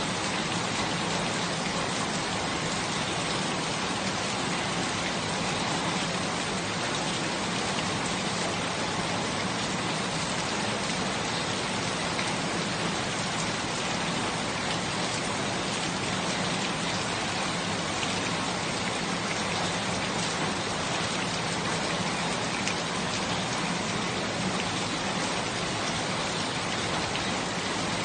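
Steady rain falling: an even, unbroken hiss of many drops, with fine individual drop ticks through it.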